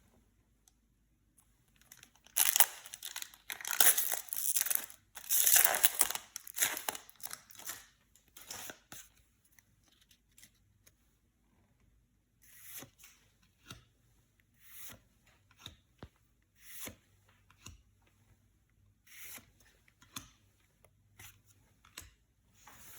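Yu-Gi-Oh! booster pack wrappers being torn open and crinkled: several seconds of loud tearing, then quieter, scattered crinkles and rustles of the wrapper being handled.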